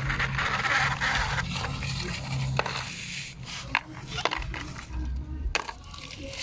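Scattered sharp clicks and knocks of small hard plastic toys being handled, over a low background rumble.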